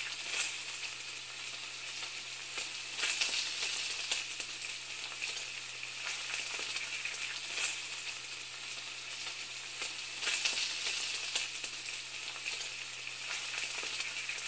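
Food sizzling and frying in a hot pan: a steady crackling hiss that swells louder a few times.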